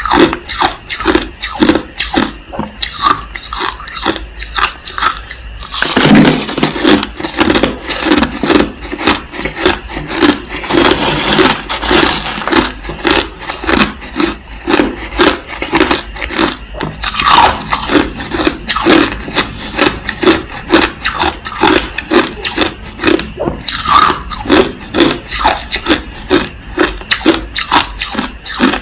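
Close-up crunching of crushed ice being chewed in the mouth, a steady rhythm of about two bites a second. A denser, louder stretch of crunching comes about six seconds in and lasts several seconds.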